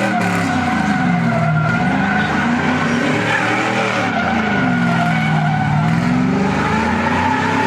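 A car doing a burnout: its engine revving, with the pitch sagging and climbing again every couple of seconds, under a continuous squeal of spinning tyres.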